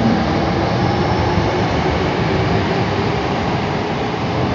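Electric commuter train running through the station, a steady rumble of wheels and motors that eases off slightly toward the end.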